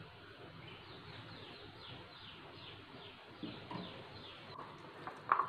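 A bird calling a quick series of about ten short, falling chirps, roughly three a second, which then stops. There are a few soft knocks under it and one brief louder knock near the end.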